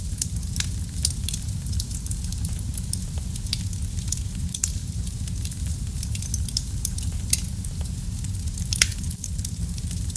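Fire crackling in a fireplace: frequent small sharp pops and snaps over a steady low rumble of the flames, with two louder pops about seven and nine seconds in.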